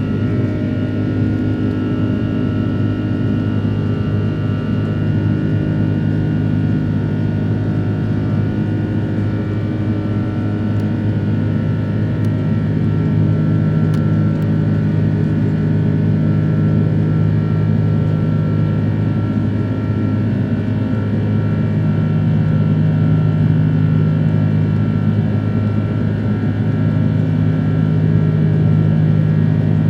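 Airbus A330-300 cabin noise during the climb, heard from a window seat: the Rolls-Royce Trent 700 engines droning steadily with a low hum and fainter steady high whines, the loudness swelling slightly now and then.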